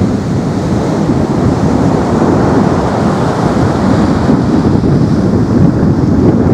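Wind buffeting the microphone: a loud, steady, low rumbling roar with no distinct events.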